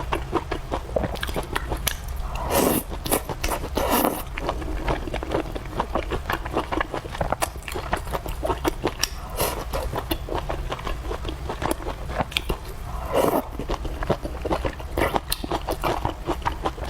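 A person chewing and biting into fried noodles, vegetables and rice close to the microphone: a dense run of small wet clicks, with a few louder mouthfuls.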